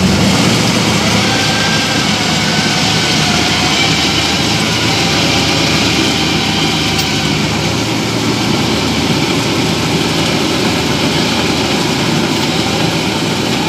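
Rice combine harvester's diesel engine running steadily at working speed, with loud, continuous machine noise.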